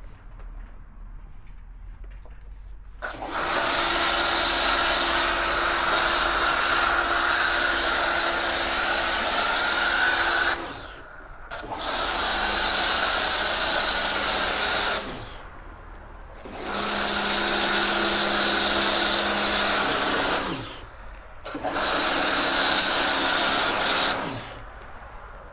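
Kärcher K2 electric pressure washer running in four bursts of a few seconds each, its motor hum under the hiss of the water jet, stopping between bursts as the spray-gun trigger is released.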